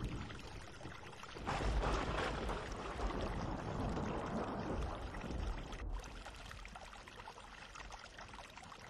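Batter-coated cauliflower florets deep-frying in hot oil, the oil sizzling and bubbling steadily as they are stirred; the sizzle swells about a second and a half in and fades toward the end.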